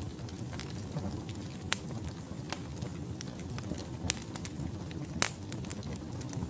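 Wood fire burning in a fireplace: a steady low rumble of flame with scattered sharp crackles and pops from the logs, the loudest pops about a second and a half, four seconds and five seconds in.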